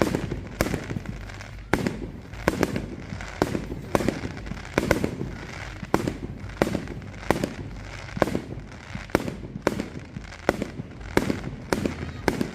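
Fireworks going off in a steady barrage of sharp bangs, about two a second, each with a short echoing tail over a low rumble.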